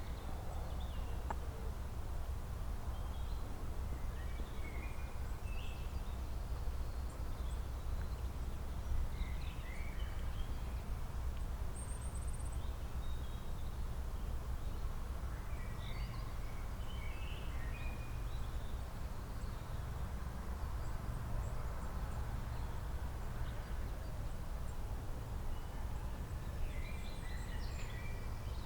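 Songbirds chirping: short, scattered calls and brief trills from several birds, over a steady low rumble.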